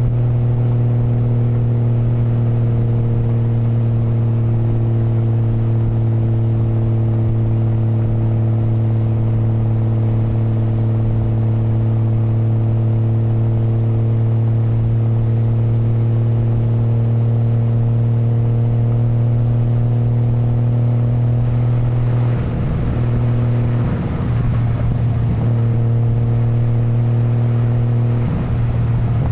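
Exhaust note of a Nissan Skyline GT-R R33's RB26 twin-turbo inline-six, running steadily at a constant engine speed. The note wavers briefly about three quarters of the way through and again near the end.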